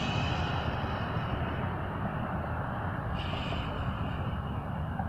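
Road traffic noise: a steady low rumble of vehicles, with the hiss of passing cars' tyres briefly swelling at the start and again about three seconds in.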